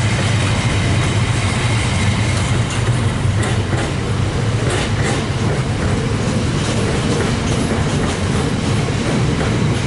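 A freight train rolling past, a steady low rumble with wheels clicking over the rail joints and a few sharper clacks midway.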